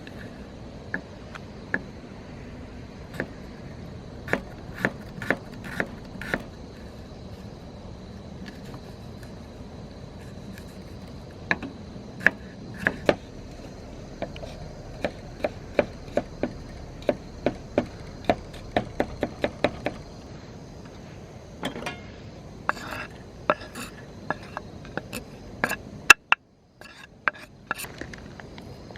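Knife chopping food on a cutting board: a run of sharp, irregular knocks, at times about two a second. A steady high insect trill runs behind it.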